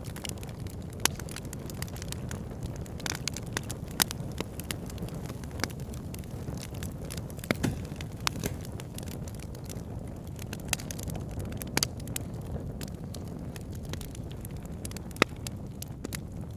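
Fire burning in a fireplace: a steady low rush of flames with frequent sharp crackles, and a few louder pops scattered through.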